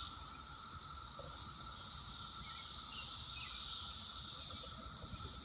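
Chorus of Brood X periodical cicadas: a continuous high, hissing buzz with a steady lower tone beneath it, swelling a little a few seconds in and easing toward the end.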